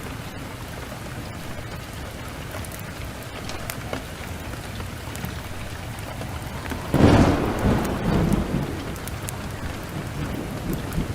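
Heavy rain falling steadily. About seven seconds in, a sudden loud thunderclap rumbles away over a second or two.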